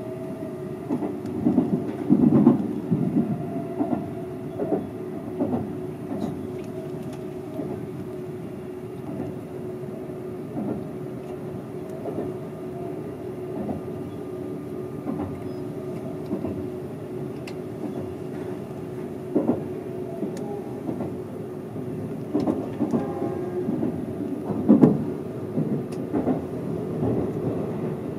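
Seibu 001 series Laview limited express train running along the line, heard from inside at the front: a steady running noise with a constant hum, broken by irregular knocks and clatter from the wheels on the track, loudest about two seconds in and again near the end.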